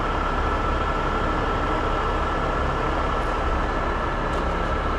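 Heavy boom tow truck's diesel engine running steadily as its winch lowers the load, with a constant high whine over a low rumble.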